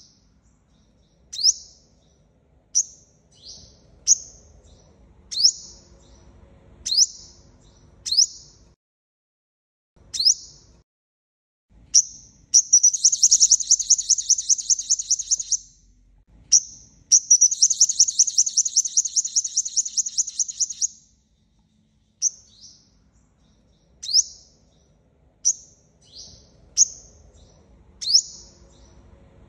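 A sunbird of the kind Vietnamese bird-keepers call the 'five-colour sunbird' calling as a decoy. It gives sharp, high, down-slurred chirps about once every second or two, broken in the middle by two long, rapid trills of three to four seconds each.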